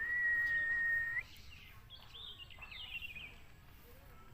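A single steady high whistle held for about a second, then a quick run of short descending bird chirps a little over two seconds in.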